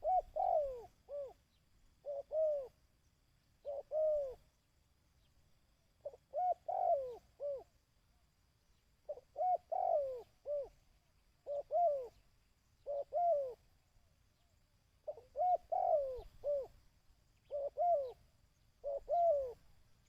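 Dove cooing: about ten short phrases of two or three arching coo notes that fall in pitch, repeated with pauses of a second or two between.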